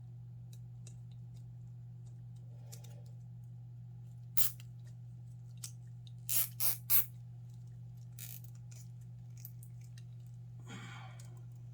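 Cable ties being worked on bundled e-bike wiring: a few short, sharp zips and snaps, three of them close together in the middle, over a steady low electrical hum.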